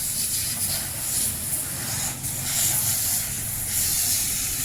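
Pressure washer spraying water onto a motorcycle: a steady hiss of spray over the hum of the washer's motor.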